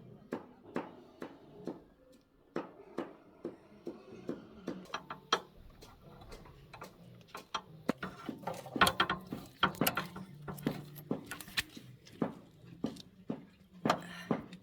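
A run of light, irregular clicks and knocks from hand tools and parts being handled, about two a second and busier about two-thirds of the way through, over a faint steady low hum.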